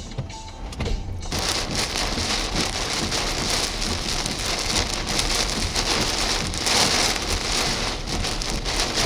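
Heavy rain pouring down in a severe thunderstorm: a steady, loud hiss that comes in about a second in, with a low rumble underneath.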